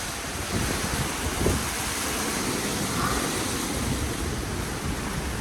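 Strong typhoon wind blowing steadily and buffeting the microphone, with a rushing sound and uneven low rumbling gusts.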